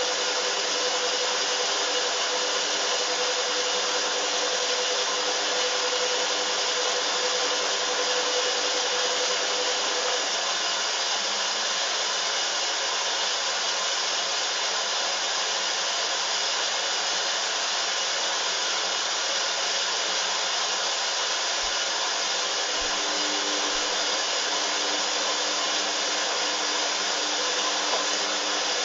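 Hoover washing machine spinning during an intermediate spin: a steady motor whine and rushing noise. A tone in it fades out about a third of the way through, and a lower tone comes in near the end.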